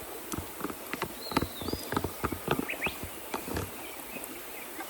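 Cooking utensils and a food container being handled while kimchi is added to a pot of udon: irregular light clicks and knocks.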